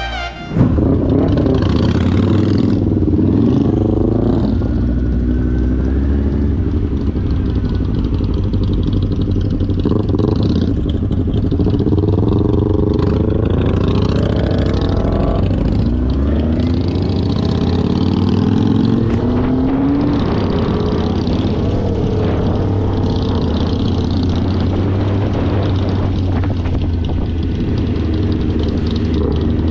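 Motorcycle engine running under way, its pitch climbing and dropping several times as it accelerates and changes gear, over a steady low rumble.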